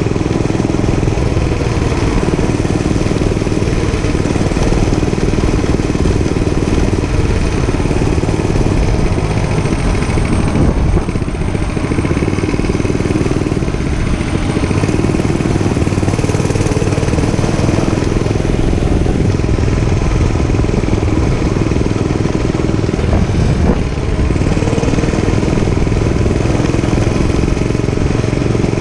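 Dirt bike engine running steadily through a ride, with dips and small changes in pitch.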